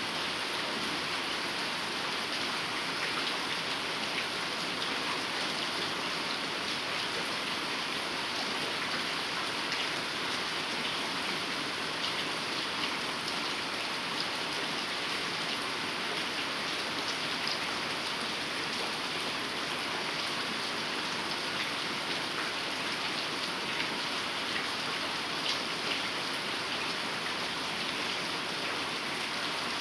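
Heavy rain falling steadily, a dense even hiss with many small drop patters throughout.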